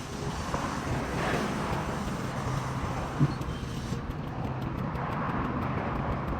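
Street traffic: cars driving past in a steady rush of road noise, with one short knock about three seconds in.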